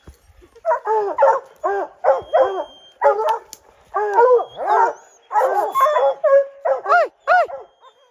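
Hunting dogs barking in quick succession, about two barks a second, some of them overlapping.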